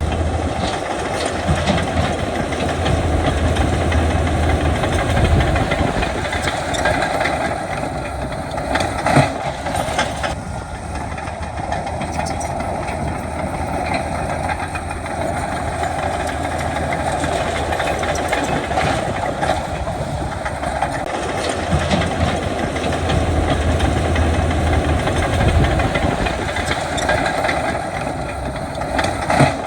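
Heavy diesel earthmoving machinery running steadily under load, with a few brief knocks about nine and ten seconds in.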